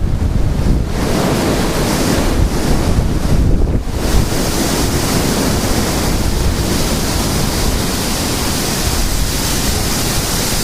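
Strong gusty wind buffeting the microphone in a continuous low rumble, with a higher hiss of rushing wind growing stronger about four seconds in.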